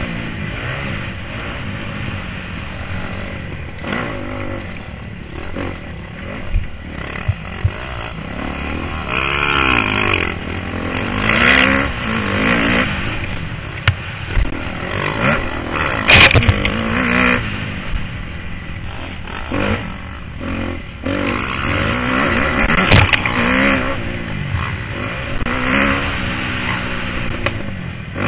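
250cc four-stroke motocross bike engine revving up and falling back again and again as it is ridden round a dirt track, heard through a helmet camera with wind noise and a few sharp knocks.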